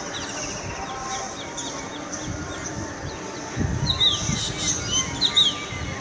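Birds chirping in a morning chorus, scattered calls at first, then a run of louder, quick downward-sliding calls from a little past halfway.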